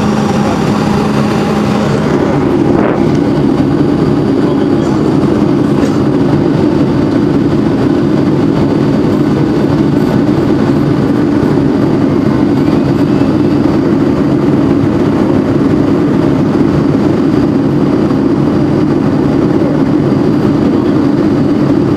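Boeing 757 cabin noise, a loud steady rumble of its Rolls-Royce engines and rushing air. About two seconds in, a steady hum drops out and the rumble gets stronger. A single knock follows shortly after.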